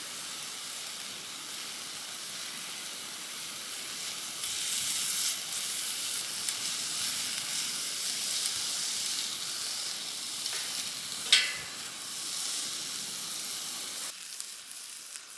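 Food sizzling and frying in a pan as a steady hiss, a little louder about four seconds in. A short sharp sound about eleven seconds in is the loudest moment, and the sizzling drops away near the end.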